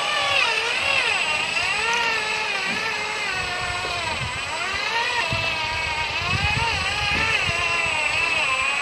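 Logging truck engine running under load, its pitch rising and falling again and again as the revs change.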